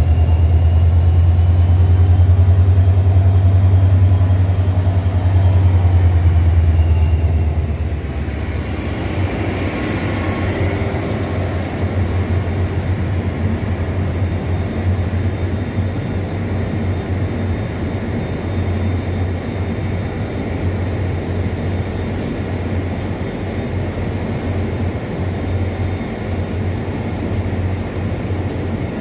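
Diesel locomotive moving off close by with a heavy, steady low engine drone and a high whine that glides down and fades about seven seconds in. Then a steady rumble of passenger cars rolling past on the rails.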